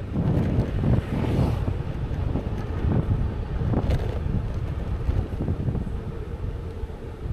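Low rumbling noise with wind buffeting the microphone, and a couple of faint clicks.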